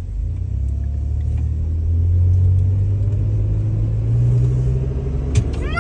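Steady low rumble of a car driving, heard from inside the cabin, swelling a little twice, with a single click near the end.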